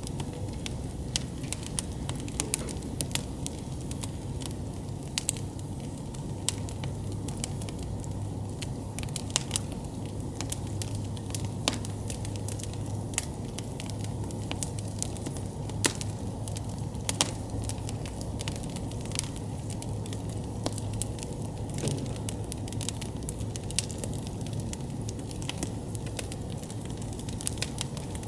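Campfire burning with frequent sharp crackles and pops over a steady low rumble of flame.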